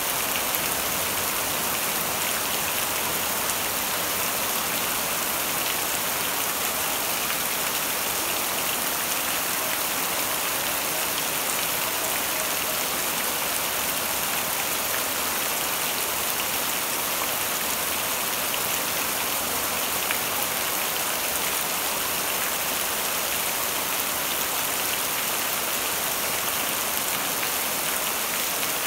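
Steady rain falling on leafy trees and bare earth: an even, unbroken hiss with no thunder.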